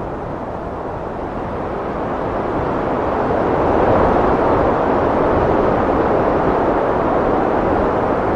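Heavy wind blowing as a steady rushing noise, swelling louder over the first few seconds and then holding.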